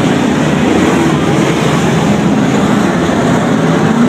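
Race car engines of the field running together on the track, a steady loud drone with several engine tones wavering over each other.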